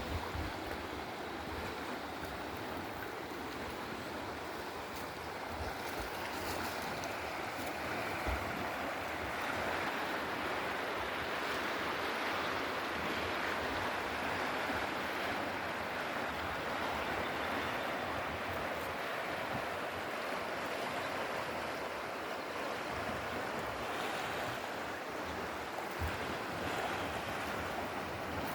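Steady rushing water, a continuous hiss that swells a little partway through, with a few brief low thumps.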